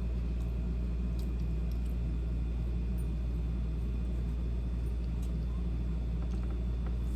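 A steady low background hum, with a few faint, scattered clicks over it.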